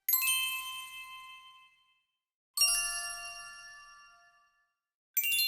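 A small metal chime struck three times, about two and a half seconds apart, each strike ringing with several bright overtones and fading away over a second or two.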